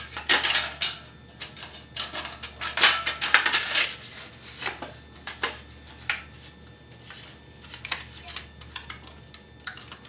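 Piece of sheet tin and a metal clamp clinking and rattling as they are fitted by hand, a run of irregular light metallic clicks and clatters, busiest in the first few seconds and thinning out after.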